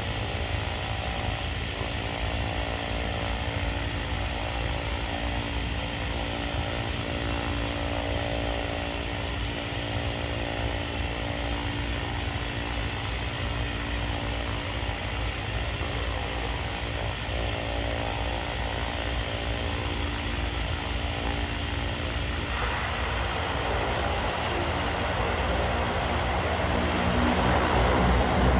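A seaplane's propeller engine running at a steady hum, then growing louder and noisier over the last six seconds or so.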